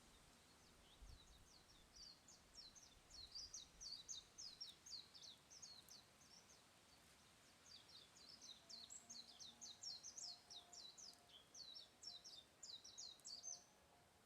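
A small songbird singing two long bouts of fast, high chirps, several notes a second, with a short gap between them about six seconds in.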